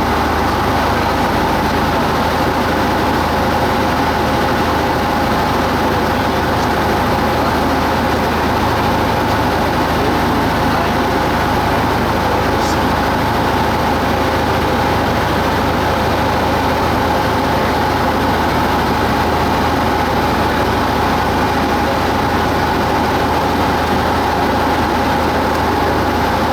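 Cessna 172 Skyhawk's piston engine and propeller droning steadily at a constant pitch.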